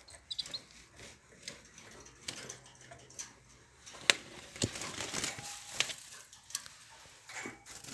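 Cage birds moving about, giving scattered sharp clicks and rustles, the loudest about four seconds in. A few short high chirps come near the start.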